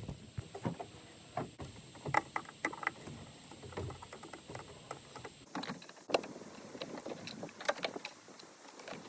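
Irregular light clicks and knocks of plastic air filter housing parts being handled, unclipped and fitted during an air filter change.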